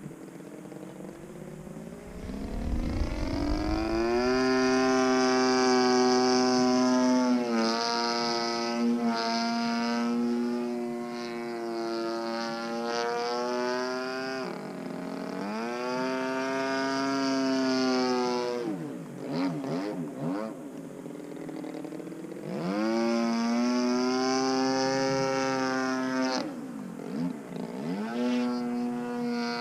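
DLE 35RA single-cylinder two-stroke gasoline engine on an RC aerobatic plane in flight, throttling up about two seconds in and then rising and falling in pitch as the plane works through manoeuvres. It throttles back twice, with a wavering dip in the middle and another near the end, before opening up again.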